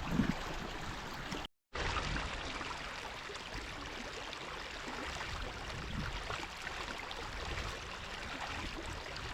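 Irrigation water flowing steadily through a ditch as a potato patch is flood irrigated. The sound cuts to silence briefly about a second and a half in.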